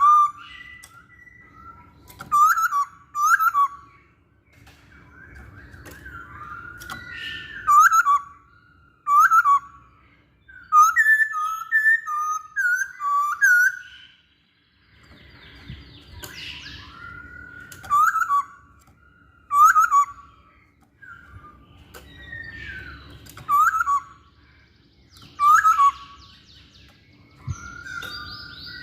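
Poksay Hongkong laughingthrush singing: loud, clear whistled notes that slur downward, given in short repeated phrases and in bouts with brief pauses between them.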